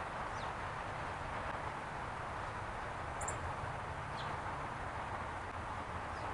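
A few short, thin, high bird calls, each sliding down in pitch, over a steady outdoor background hiss.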